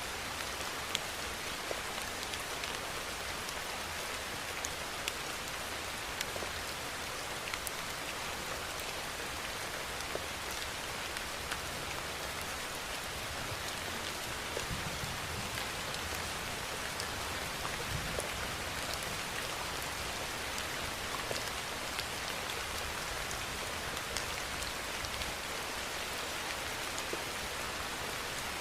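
Steady rainfall, an even hiss with individual drops ticking sharply here and there. There are a couple of brief low rumbles near the middle.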